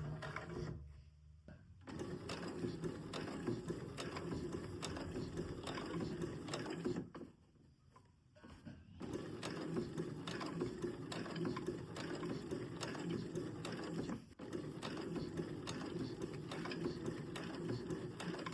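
Sewing machine stitching in runs of several seconds, the needle going fast and even. It stops briefly three times: about a second in, for nearly two seconds in the middle, and for a moment later on.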